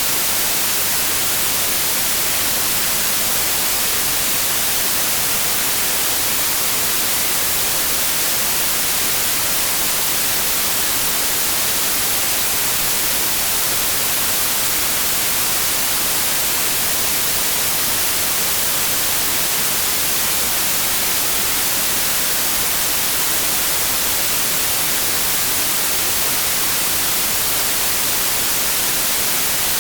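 Synthetic white noise: a constant, even hiss, loudest in the highs, with no change in level.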